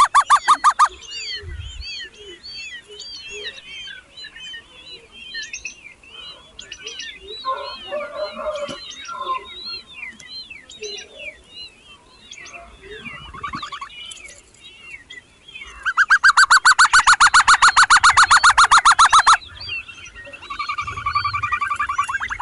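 Baby birds cheeping with many short, overlapping chirps, the calls of hungry young begging for food. Past the middle, a loud, rapid pulsing call lasts a few seconds, and a shorter pulsed call starts near the end.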